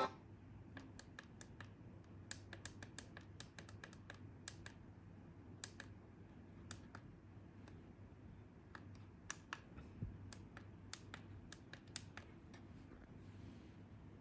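Faint, irregular light taps and clicks, a few to the second, against near silence: fingers handling a device.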